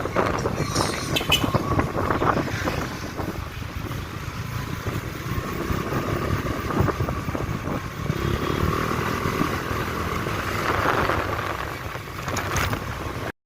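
Motorcycle riding: the engine runs with wind buffeting the smartphone microphone, and the sound cuts off abruptly near the end.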